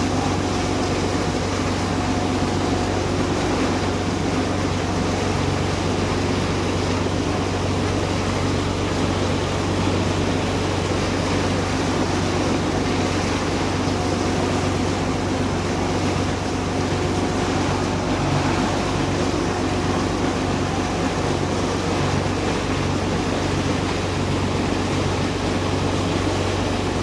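Boat engine running steadily underway, a constant low drone with a faint steady hum above it.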